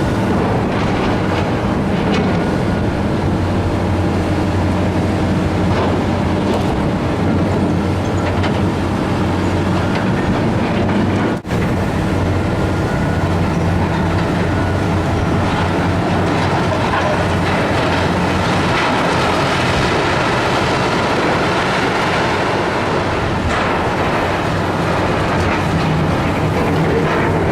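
Heavy diesel demolition machinery running steadily under load, with rattling and clanking of metal and debris. The sound cuts out for an instant about halfway through.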